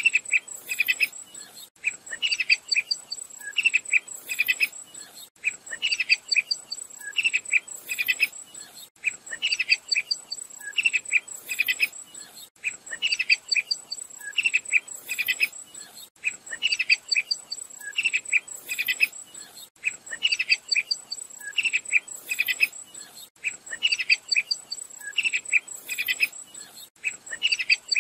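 Sharp-tailed tyrant singing: a short phrase of quick high notes repeated at even intervals of about two seconds, over a steady high-pitched insect trill.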